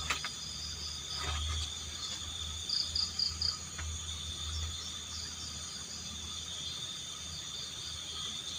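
Night chorus of crickets trilling steadily, with a short run of four louder chirps about three seconds in. A couple of soft clicks sound in the first second and a half.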